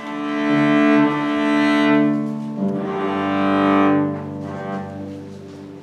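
Cello playing a slow, singing melody in long bowed notes, each held for a second or more before moving to the next, with piano accompaniment.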